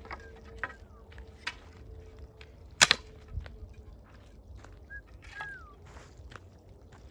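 Campfire wood crackling: scattered sharp snaps and pops, with one much louder crack a little before the middle.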